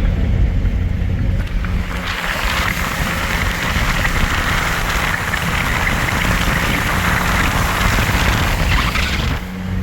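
Rain hissing steadily against a surface over a low, steady engine hum. The rain noise comes in about two seconds in and cuts off shortly before the end.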